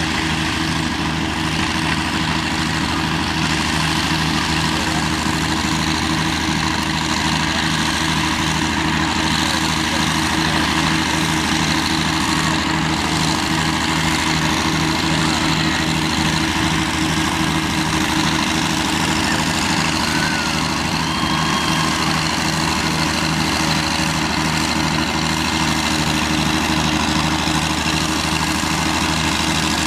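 Oliver 88 tractor engine running steadily at an even speed, with no revving or change in load.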